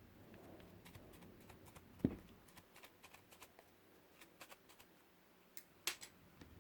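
Foam slime mixed with clay being squeezed and worked by hand: soft squishing with scattered small crackling clicks and pops, a louder knock about two seconds in and a sharp pop near the end.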